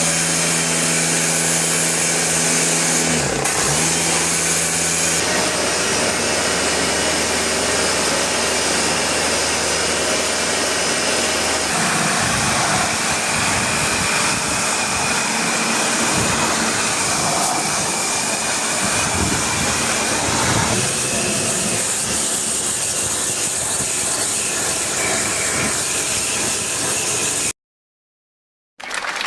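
A machine's electric motor running steadily under a strong hiss. Its hum shifts in pitch a few times, and the sound cuts off abruptly near the end.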